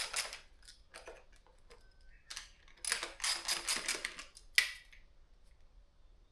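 Rapid metallic clicking in two runs of about a second each, then one sharp click, from tightening the nuts of a bicycle saddle clamp.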